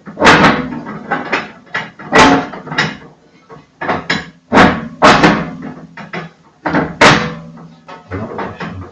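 Metal stove parts clanking as they are handled and fitted inside the firebox of a Kratki Koza K6 cast-iron stove. About five loud clanks with a short ring, among lighter knocks and scrapes.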